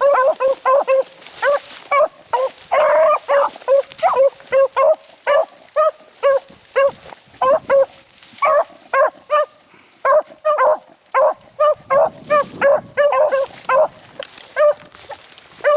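Beagles barking in a steady string of short, repeated barks, about two or three a second: the hounds giving tongue while running a rabbit's trail.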